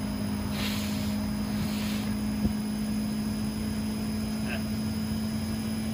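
LG Multi V mini air-conditioning outdoor unit running with a steady hum. A short hiss comes about half a second in, and a single click at about two and a half seconds.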